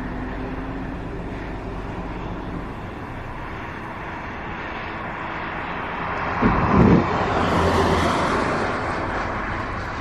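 Strong wind rushing over and buffeting the microphone, a steady roar that swells about six seconds in with a brief low buffet before easing slightly near the end.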